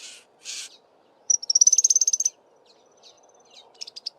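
Vampire ground finch giving sharp calls: two short harsh, hissy notes, then about a second in a fast, high-pitched trill of rapid repeated notes lasting about a second, with more thin trilled notes near the end.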